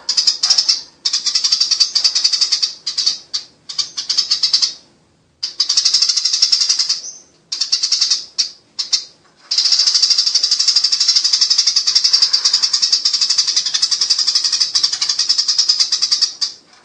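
Eurasian tree sparrows chattering in rapid, high trills, the squabbling calls of sparrows fighting. The chatter comes in bursts of a second or two with short breaks, then runs on unbroken for about seven seconds from about ten seconds in.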